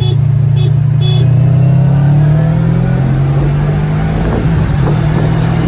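Car engine pulling hard under full acceleration, its pitch climbing through the first few seconds and then holding steady, with road noise behind it.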